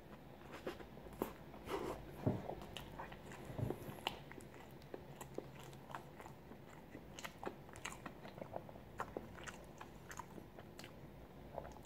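A person biting and chewing a soft white-bread sandwich close to the microphone: faint, irregular mouth clicks and smacks.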